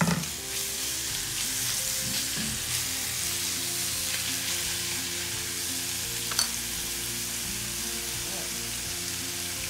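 Chopped lobster tail meat sizzling steadily in hot butter in a frying pan while it is stirred with a fork, with a sharp tap about six seconds in.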